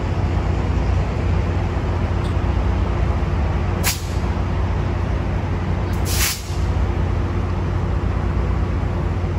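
Train running with a steady low rumble and hum, broken twice by short sharp hisses of air, about four seconds in and again about six seconds in, the second a little longer.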